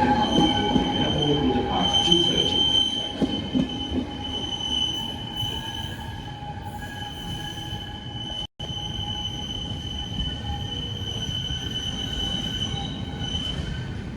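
Steel wheels of a train of DSB IC1 carriages hauled by a Vectron EB locomotive squealing on the rails, several high steady squeal tones over a low rumble, slowly getting quieter. The sound cuts out for a split second about eight and a half seconds in.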